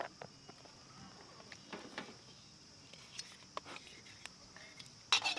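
Steady high-pitched chorus of insects, with scattered small clicks and knocks and one louder, sharper clatter near the end.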